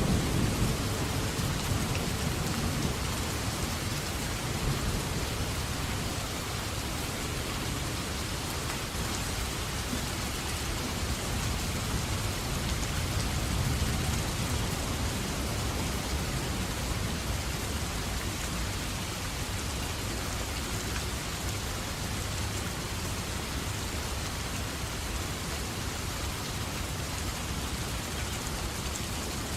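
Heavy, steady rain falling, with the low rumble of thunder dying away over the first few seconds.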